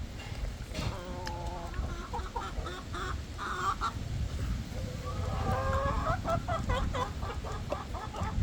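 Hens clucking, with a few longer drawn-out calls and then a quick run of repeated clucks, about four a second, near the end. Low wind rumble underneath.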